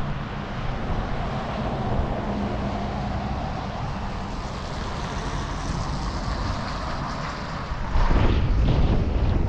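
Distant engine hum with a faint, slowly rising tone. About eight seconds in, wind starts buffeting the microphone with a loud low rumble.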